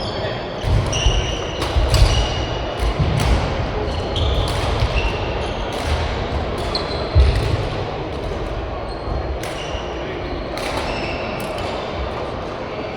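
Badminton rally: shoes squeaking briefly and often on the court floor, feet thudding, and sharp racket hits on the shuttlecock at irregular intervals.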